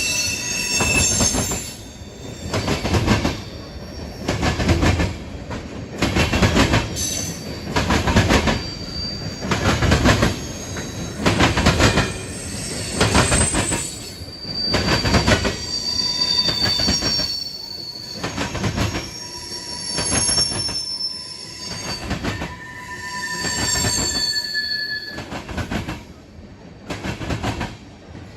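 Railroad cars rolling past close by. The wheels click over the rail joints in a regular beat of loud peaks about every two seconds, with high-pitched wheel squeal coming and going.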